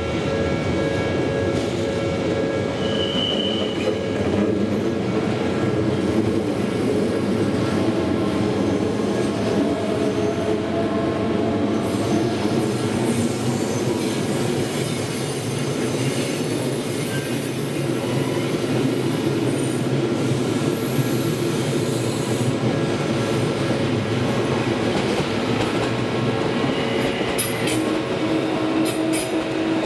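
Odakyu Line electric commuter trains passing close by over a level crossing: steel wheels running on the rails with a squeal, at a steady loud level.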